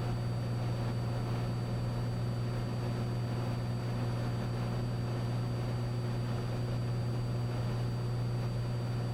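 Steady drone of a Cessna 182's six-cylinder piston engine and propeller in flight, heard from inside the cockpit, with a strong low hum and an even rush of air noise over it.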